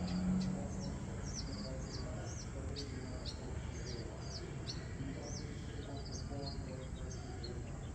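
Birds chirping, a steady run of short, high, hooked calls a few per second over a low background rumble.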